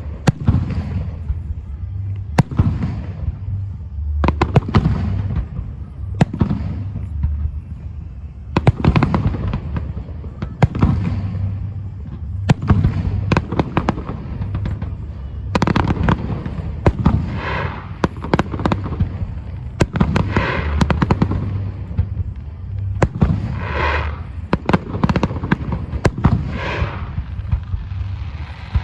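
Fireworks display: shells bursting in quick succession, with sharp bangs followed by rumbling echoes and spells of dense crackling.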